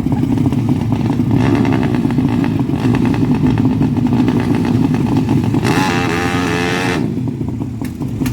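Honda Karisma's single-cylinder four-stroke engine running steadily, with a brief higher wavering tone for about a second around six seconds in.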